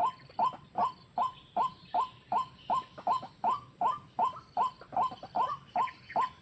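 White-breasted waterhen (ruak-ruak) calling: short, sharp notes repeated evenly, about three a second, the lure sound used to draw the birds to the snares.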